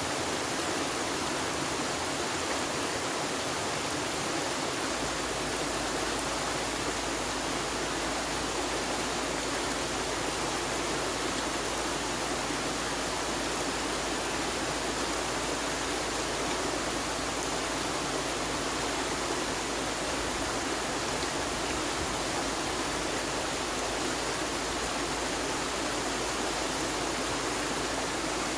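Flowing river water, a steady, even rush with no changes.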